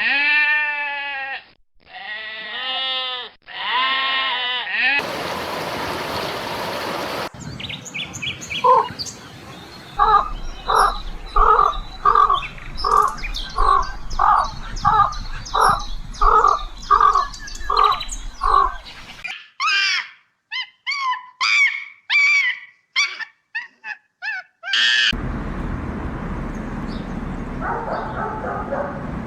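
A string of different animal calls cut one after another. It opens with bleating, followed by a long run of short calls repeating about twice a second, then quick high bird chirps, with noisy stretches in between.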